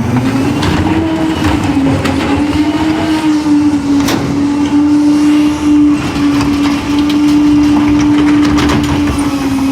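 CCC garbage truck's engine rises in pitch in the first second and holds a steady high idle while the Pak-Mor rear loader's hydraulic packer compacts heavy trash. Scattered cracks and crunches come from the load being crushed.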